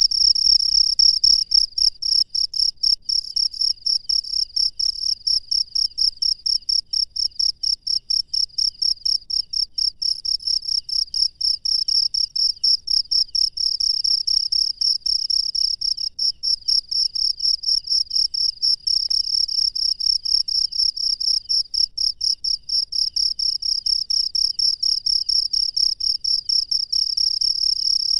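A field cricket chirping steadily at night: a high-pitched, even pulsing of about four to five chirps a second, loud and close.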